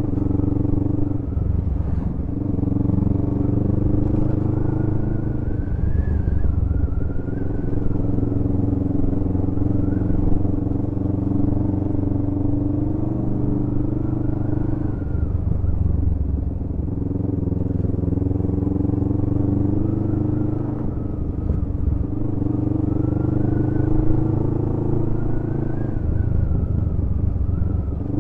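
Motorcycle engine running under way, its note dropping briefly and picking up again several times.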